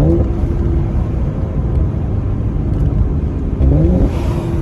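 2017 Mercedes-AMG C43's twin-turbo V6 through the factory Performance exhaust, heard from inside the car with the windows down as the revs climb: the engine note rises sharply at the start, holds, then rises again a little before the end.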